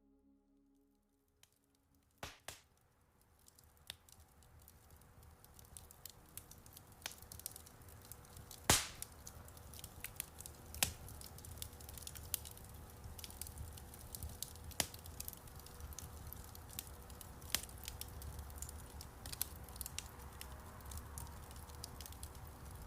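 Wood fire crackling in a fireplace, scattered sharp pops and snaps over a low steady rumble, with one louder pop about nine seconds in. It starts from near silence and fades in over the first few seconds.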